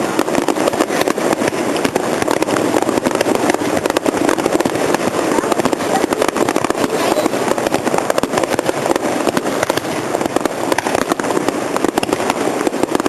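Fireworks display: a dense, continuous crackling of many small bursts, with no single big bang standing out.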